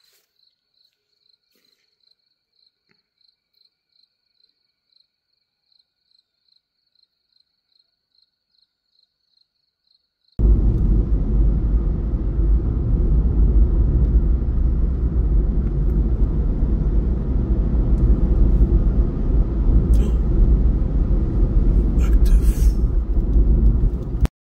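Crickets chirping faintly in an even pulsing trill. About ten seconds in, a loud steady low rumble cuts in suddenly and stops just as suddenly shortly before the end.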